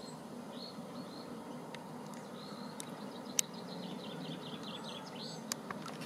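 Small birds chirping outdoors, a few single chirps and then a quick run of twittering in the second half. A few sharp clicks cut in, the loudest about three and a half seconds in, over a steady low background rumble.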